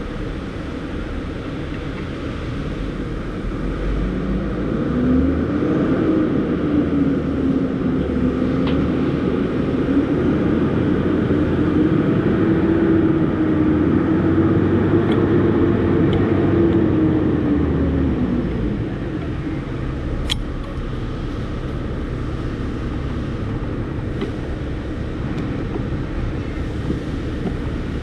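A motor vehicle's engine running, rising in pitch about four seconds in, holding steady, then dying away around eighteen seconds, over a low rumble. A few sharp clicks of tools or metal follow in the second half.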